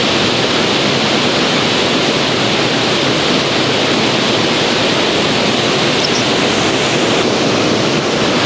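A waterfall's steady rush of falling water, an even, unbroken noise.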